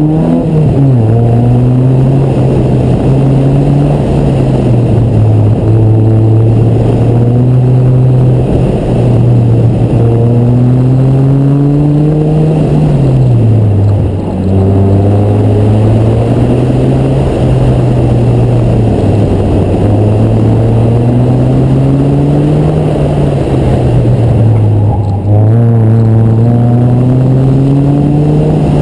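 Mazda MX-5's 2.0-litre four-cylinder engine being driven hard through an autocross course, loud throughout. Its pitch climbs under acceleration and falls away as the driver lifts or brakes, over and over, with a sharp drop about 13 seconds in and another near the end.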